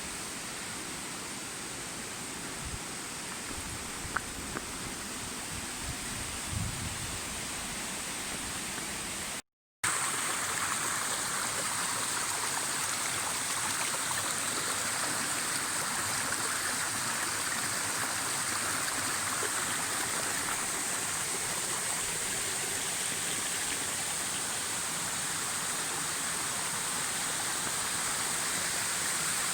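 Rushing water of a waterfall and mountain stream, a steady hiss with a few soft low bumps in the first part. About a third of the way in it cuts out for a moment and returns louder and brighter.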